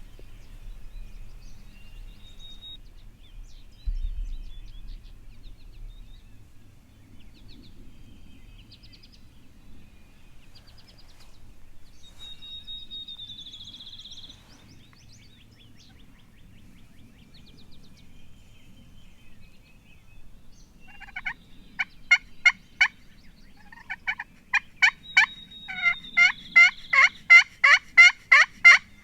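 A loud series of turkey yelps, evenly spaced at about three a second, starting about two-thirds of the way in with a short run of notes, then a longer run that grows louder toward the end.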